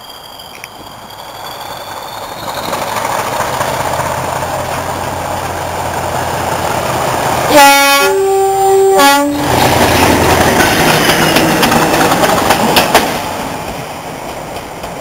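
Class 40 diesel-electric locomotive, with its English Electric 16-cylinder engine, working hard as it approaches and passes, then fading away. About halfway through it sounds its two-tone horn: a low note, a longer higher note, then the low note again.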